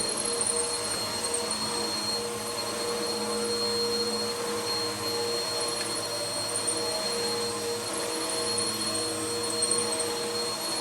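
Vacuum cleaner running steadily, its motor whine holding an even pitch as it picks up powder from the floor.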